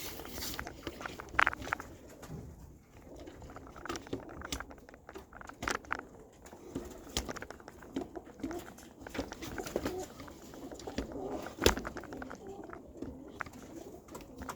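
Domestic pigeons cooing over and over, with scattered sharp knocks and clicks, the loudest about a second and a half in and again near the end.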